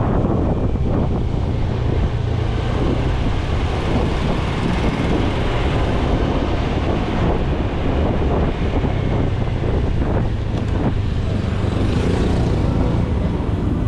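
A motorcycle engine running steadily on the move, with wind rushing over the microphone.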